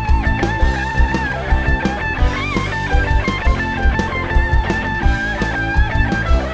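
Rock music without vocals: an electric guitar plays a held lead line with pitch bends over bass and a steady drum kit beat.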